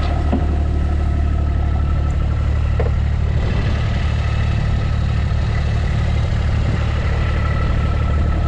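Farm vehicle engine running steadily at a low, even speed, with a constant low drone and no revving.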